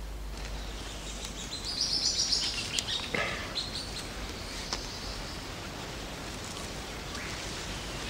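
A bird calls a quick run of high notes that fall in pitch, about two seconds in, over a steady background hiss and low hum.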